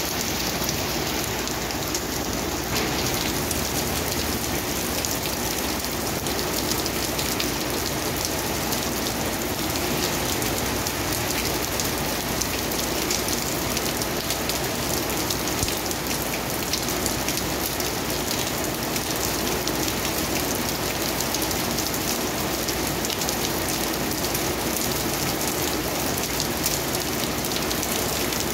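Heavy rain falling steadily onto a concrete pavement and asphalt road, a dense, even patter of drops on the hard wet ground.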